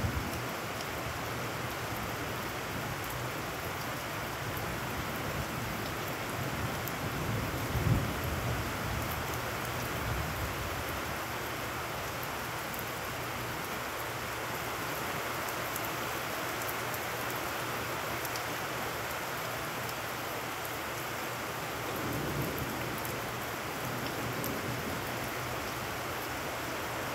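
Heavy rain falling steadily on puddles and wet ground. It makes an even hiss, with a brief low rumble about eight seconds in and a fainter one near the end.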